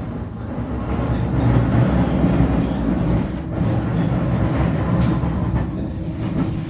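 Flexity tram running along the rails with a steady rumble, and a couple of sharp clicks partway through.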